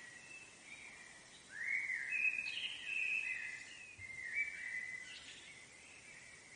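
A bird singing a run of clear whistled notes, the first a rising glide, over a steady faint hiss of background noise.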